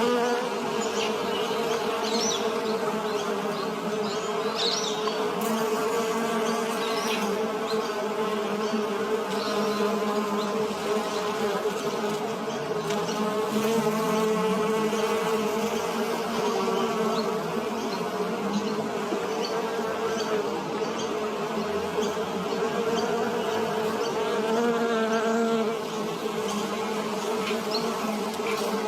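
Bees buzzing in a steady drone that wavers a little in pitch.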